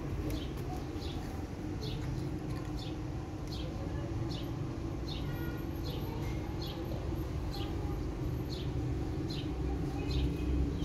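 A small bird chirping over and over: short, high chirps falling in pitch, evenly spaced about every three-quarters of a second, over a steady low hum.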